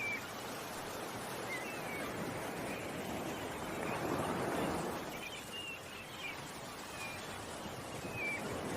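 Ocean waves washing ashore, one swell building and falling away about four to five seconds in. Small birds chirp briefly every second or so.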